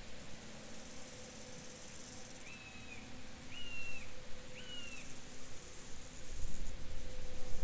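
Field ambience: insects, crickets most likely, chirring in a high pulsing hiss, while a bird gives three short calls about a second apart. A low rumble swells near the end.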